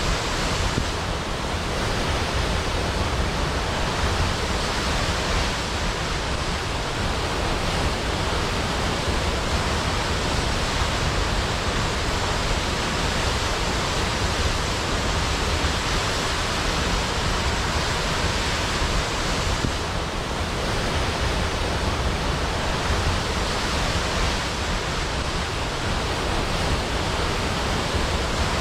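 Large waterfall pouring into a pool: a steady, dense rush of falling water with a deep rumble underneath, unchanging throughout.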